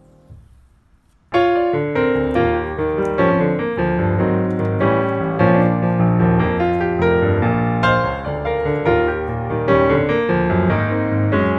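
Background piano music that starts suddenly about a second in, a lively run of struck notes and chords, after a short near-silent gap.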